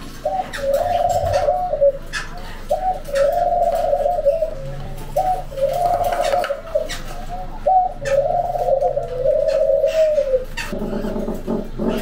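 A caged bird gives four long, low calls of even pitch, each lasting about one and a half to two and a half seconds with short gaps between them, and the last is the longest. Light clicks and taps come between the calls.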